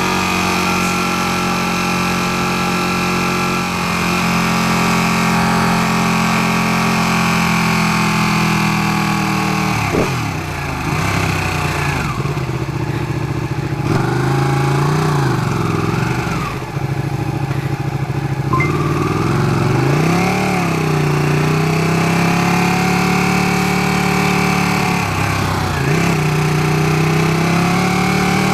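Ducati 959 Panigale's L-twin engine running under way, first steady, then dipping and rising in pitch several times in the middle before settling steady again.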